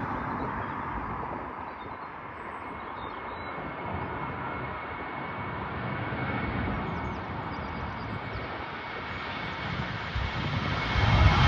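Jet aircraft engines at a distance: a steady rushing noise with a faint high whine, growing louder near the end.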